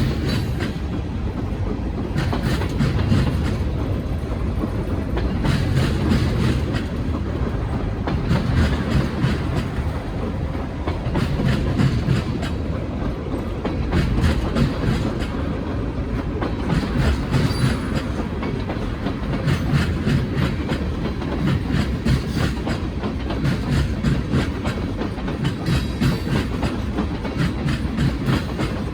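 Freight train cars rolling past, their wheels clicking in a steady rhythm over rail joints above a continuous low rumble.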